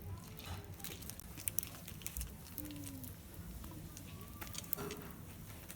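Wood fire crackling, with irregular sharp pops and snaps, the two loudest close together about a second and a half in.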